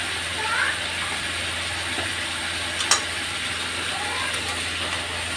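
Marinated chicken sizzling steadily in an aluminium kadai over a gas flame, cooking in the yogurt and meat juices with no water added. A single sharp click about three seconds in.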